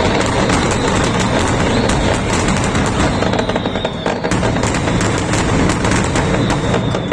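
Fireworks finale: a dense, continuous barrage of rapid, overlapping bangs and crackling, with faint high whistles among them.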